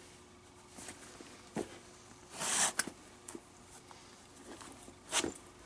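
Handling sounds of a leather baseball glove being relaced by hand: a light knock, then short rasping scrapes with a few clicks, about two and a half seconds in and again near the end.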